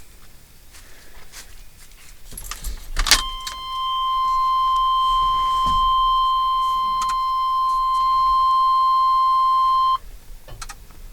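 Keys jangling and a sharp click, then the truck's dashboard warning buzzer sounds a steady high tone for about seven seconds before cutting off abruptly.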